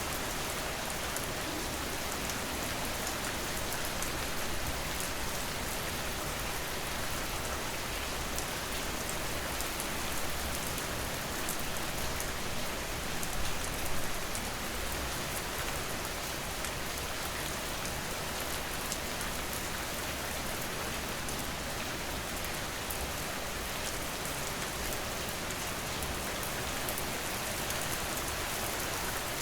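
Steady rain falling on a surface, an even hiss with many fine drop ticks, swelling slightly twice near the middle.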